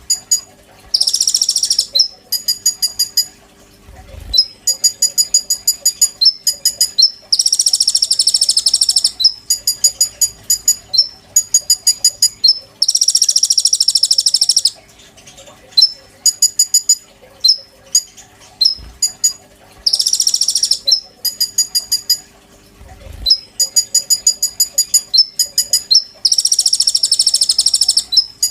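A konin songbird singing loudly and continuously: rapid trains of sharp, high chipping notes alternate with harsh buzzing bursts of about a second and a half, which come every five to seven seconds. A faint steady hum lies underneath.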